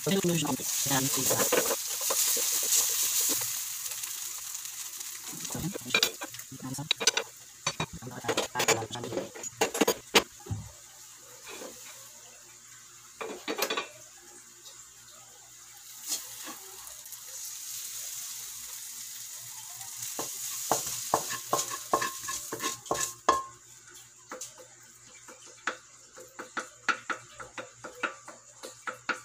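Minced sardine sisig sizzling in a wok while a wooden spatula stirs and scrapes it against the pan, drying it out. Near the end a quick run of light taps comes as it is scooped onto a plate.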